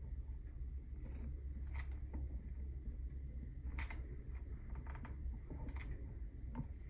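Scattered small clicks and snips of hand work, about six in a few seconds, over a steady low hum.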